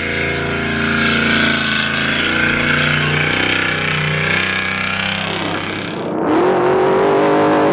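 Off-road trophy truck engine running hard at high revs, its pitch holding steady and stepping up and down a few times. About six seconds in, the sound cuts abruptly to a higher, wavering engine note.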